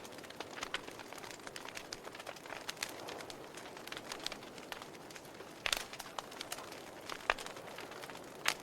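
Wood fire in a fireplace crackling, with irregular small pops over a soft hiss and a few sharper pops in the second half.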